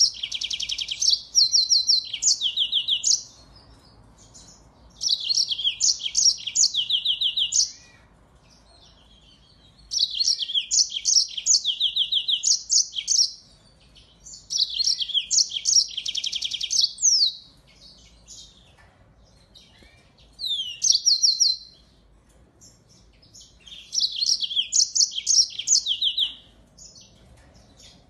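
A small finch-type songbird singing in six phrases of rapid repeated high notes and trills, each lasting a few seconds, with short pauses between them.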